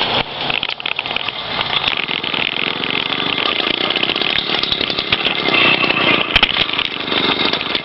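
Two-stroke motorized-bicycle kit engine running with a rapid, raspy buzz during its first start, bump-started by rolling downhill. A faint rising whine comes in about five seconds in, and there is one sharp click about six and a half seconds in.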